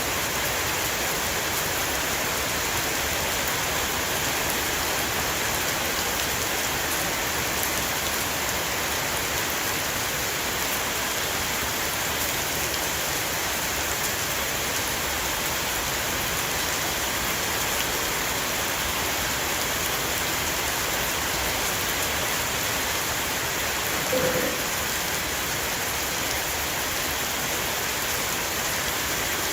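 Rain shower falling steadily on a roof, an even hiss of many drops. A short pitched sound rises briefly above the rain about three-quarters of the way through.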